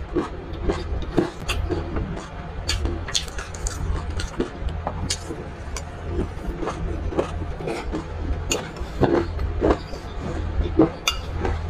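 Close-miked chewing of a mouthful of sesame seeds and chili flakes: many small, irregular crisp crackles, with a metal spoon now and then clinking and scraping in a glass bowl, over a low steady hum.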